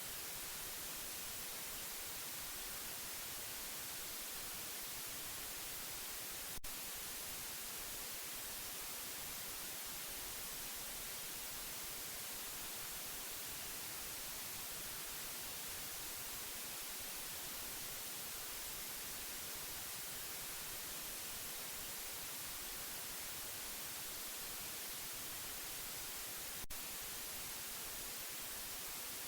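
Steady white noise: an even hiss, brightest in the treble, unchanging throughout. Two faint clicks break it, about six and a half seconds in and again near the end.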